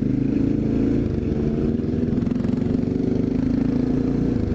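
Honda XR650L's single-cylinder four-stroke engine running at a steady pace under way, its note holding level.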